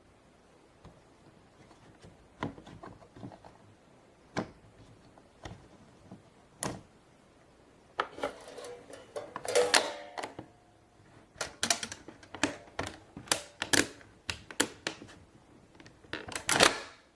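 Plastic toy pieces of a Play-Doh playset clicking and knocking as they are handled, a few scattered taps at first, then a busier run of clicks and clatter from about halfway, ending in a louder clatter.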